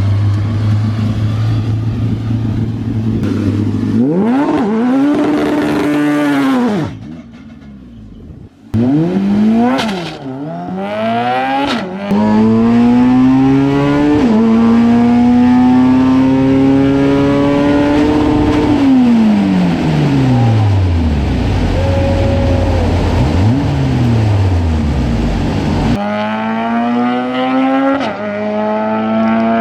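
Honda-engined drag-racing pro truck making a run: idling, then revving up, then pulling hard at full throttle with two upshifts, where the pitch drops and climbs again. Its engine note then falls away as it lifts off.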